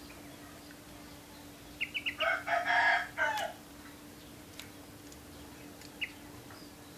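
A rooster crowing once, a pitched call of about a second and a half with a short break near its end. A few sharp bird chirps come just before it, and one more comes near the end, over a faint steady hum.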